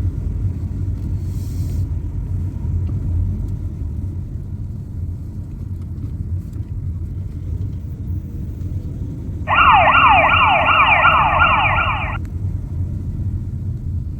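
Steady low rumble of a car on the road. Partway through, a fire engine's siren sounds a fast yelp for about three seconds, a quick warbling rise and fall repeated about three times a second, then cuts off.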